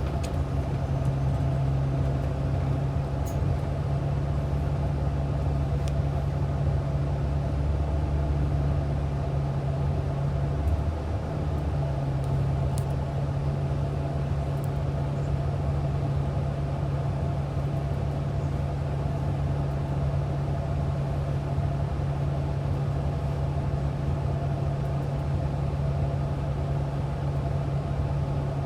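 Inside the cabin of a Sound Transit Route 515 bus, its engine hums steadily at a constant pitch, with a brief dip about eleven seconds in.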